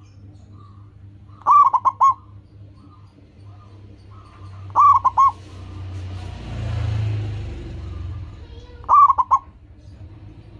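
Zebra dove (perkutut) cooing: three short phrases of quick repeated notes, each about half a second long and a few seconds apart. A low rumble swells and fades between the second and third phrases, and fainter small bird calls sound in between.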